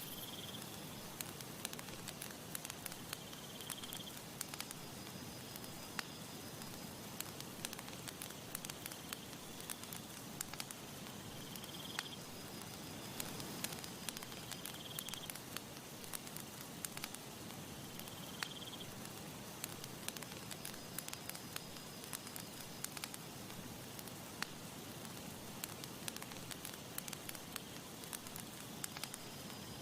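Wood campfire crackling steadily, with many sharp pops and snaps over a soft, even hiss. A short high chirp recurs every few seconds.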